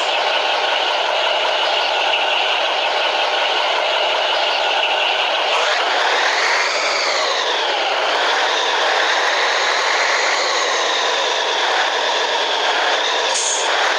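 Scania 113H truck's straight-piped six-cylinder diesel engine running under load with a steady note. About halfway through the revs climb and then fall back, and the note holds steady again. A brief hiss sounds near the end.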